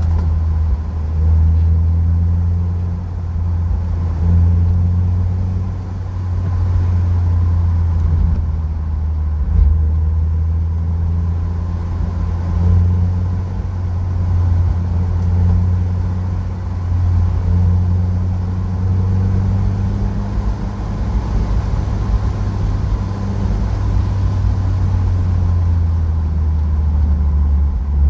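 Mazda MX-5's four-cylinder engine running under way, heard from inside the cabin with a low drone of road noise, its note rising and falling as the revs change.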